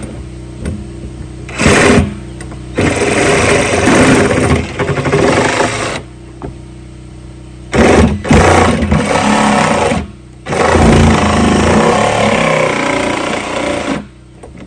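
A handheld power tool running in several bursts of one to four seconds, with short stops between them.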